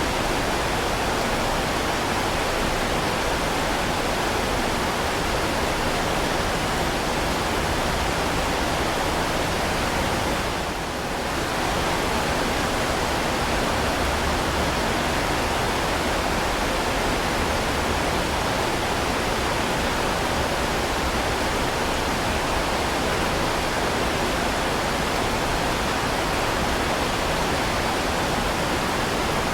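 Heavy rain falling steadily, a dense, even hiss that dips briefly in level about eleven seconds in.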